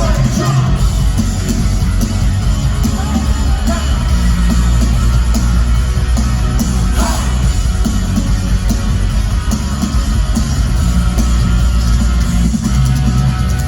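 Loud live rock music from a concert's sound system, with heavy bass and some singing or shouting over it.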